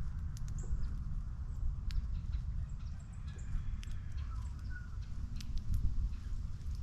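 Short, faint bird chirps and scattered light clicks at a bird feeder, over a steady low rumble.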